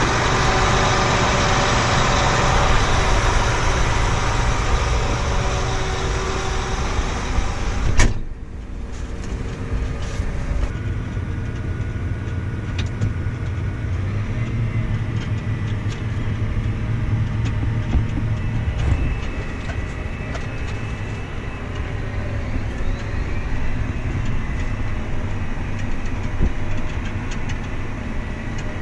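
Farm machinery engine running steadily with dense mechanical noise. About eight seconds in the sound changes abruptly to a quieter, lower engine hum.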